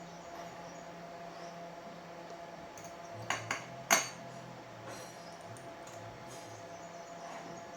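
Three quick sharp metallic clinks, the last the loudest, over a steady electrical hum.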